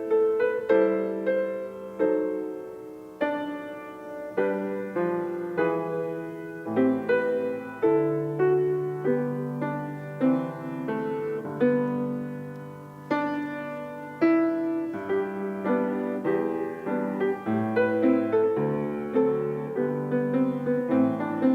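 Solo piano playing a slow, gentle offertory piece: struck notes ring and fade over longer held bass notes.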